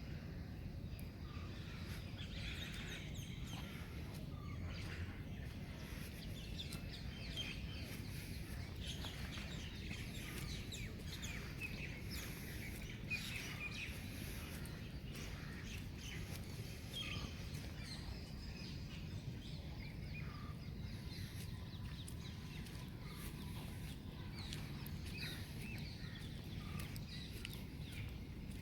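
Small birds chirping, many short high calls scattered throughout, over a steady low outdoor rumble.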